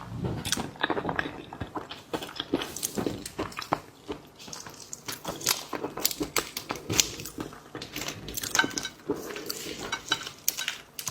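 Eating sounds from a seafood meal: a continual run of sharp clicks, crackles and clinks as shellfish shells are handled and broken over dishes and cutlery.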